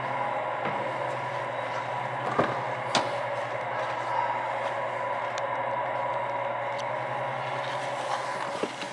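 Nissan Note's petrol engine idling steadily, with two sharp clicks about two and a half and three seconds in.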